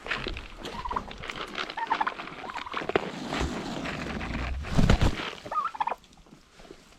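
Turkeys and goats feeding: scattered pecking, crunching and shuffling, with a few short bird calls and a heavy thump about five seconds in. It goes quieter for the last second.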